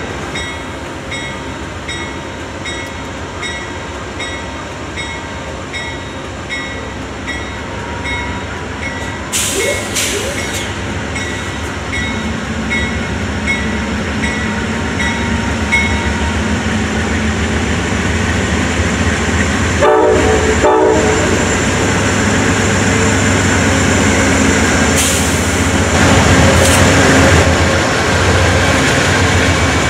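Amtrak diesel locomotives approaching and passing. A bell rings steadily about twice a second through the first half, a short horn blast sounds about two-thirds of the way in, and the deep engine rumble grows until the locomotive passes near the end.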